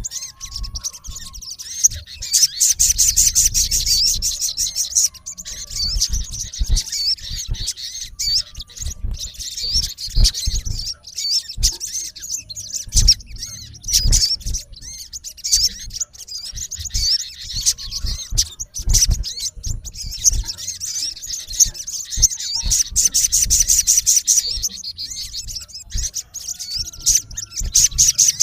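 Male olive-backed sunbird giving harsh, rapid high chirps and trills, the call of a male challenging a rival. The calls come in dense runs about two to five seconds in and again near the end, with scattered low knocks throughout.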